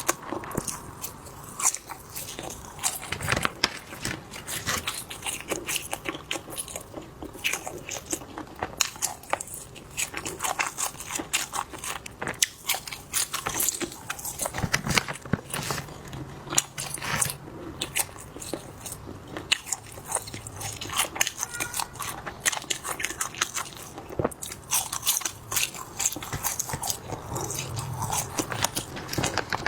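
Close-miked eating of spicy skewers: bite after bite and chewing, with crisp crunches and crackles coming irregularly, several a second.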